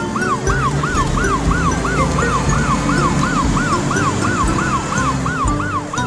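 Emergency-vehicle siren in a fast yelp, its pitch rising and falling about three times a second, over a children's song backing.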